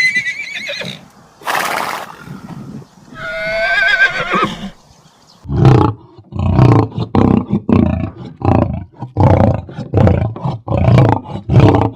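Farm animal calls: a high call with a quaking pitch, a short harsh burst, and a wavering whinny-like call. About halfway through comes a long run of harsh, rhythmic calls at about two a second.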